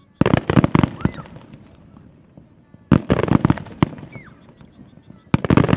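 Aerial fireworks shells bursting: three quick clusters of sharp bangs and cracks, about a quarter second in, about three seconds in and near the end.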